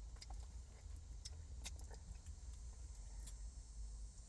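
A steady low hum with a few short faint clicks and rustles scattered through it.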